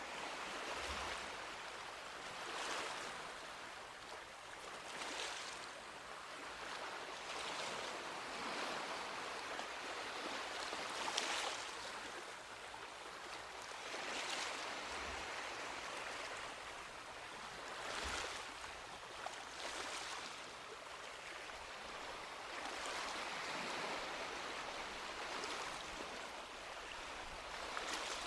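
Small sea waves washing onto a beach, a steady hiss with a new wash swelling every two to three seconds and a few soft low thuds.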